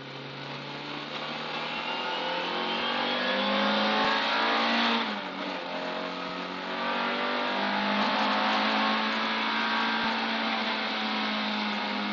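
Car engine accelerating hard, its pitch climbing, dropping sharply at a gear change about five seconds in, then climbing again through the next gear.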